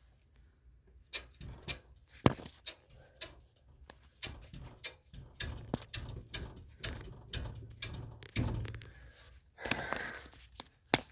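Irregular sharp clicks and knocks, about one or two a second, with a low rumble in the middle, from hands and tools working on the truck's front wheel and suspension during an inspection.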